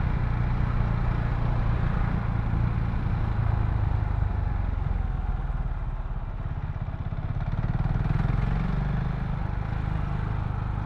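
Single-cylinder engine of a KTM Duke 690 motorcycle running steadily at low revs in slow traffic, its pitch rising a little about eight seconds in.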